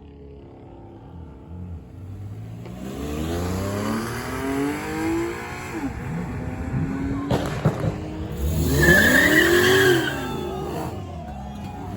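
A car engine revving up with its pitch climbing, a few sharp cracks about two-thirds of the way in, then a loud tire squeal lasting about two seconds near the end.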